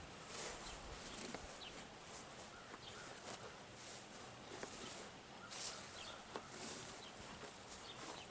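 Faint outdoor background noise: a low, even hiss with a few scattered light clicks and brief faint high chirps.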